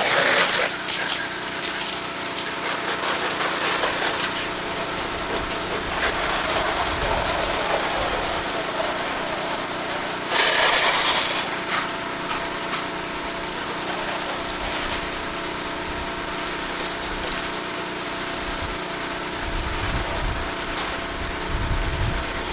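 Gas pressure washer engine running steadily under a hiss of water spray, rinsing loose dirt off vinyl siding. A louder burst of hiss comes about ten seconds in.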